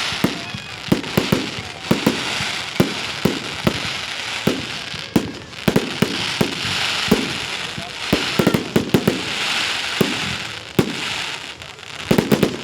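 Fireworks display going off: a rapid, irregular string of sharp bangs and crackles over a steady hiss that swells and fades.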